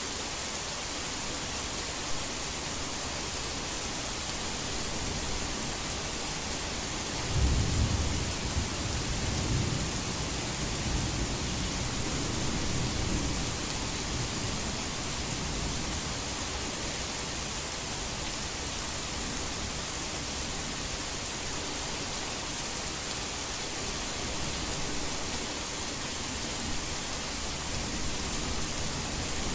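Steady heavy rain hiss, with a roll of thunder breaking in about seven seconds in and rumbling away over several seconds.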